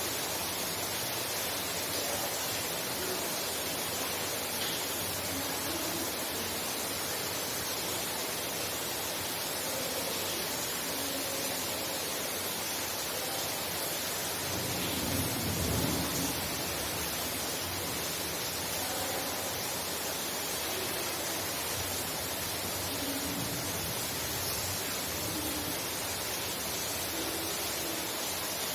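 Heavy rain falling steadily, heard from inside a house as an even hiss, with a brief low rumble about halfway through.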